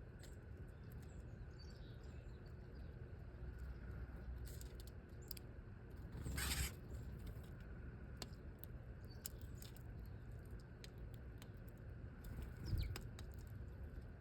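Small birds giving faint, scattered high chirps, with light ticks and pattering and a brief rustling flutter about halfway through.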